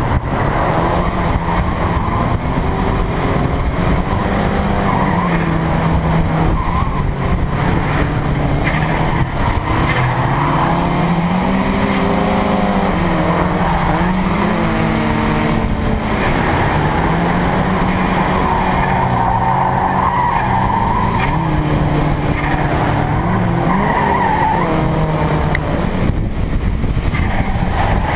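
Turbocharged Mazda Miata four-cylinder engine revving up and down over and over as the car is driven through drifts, with tyres squealing.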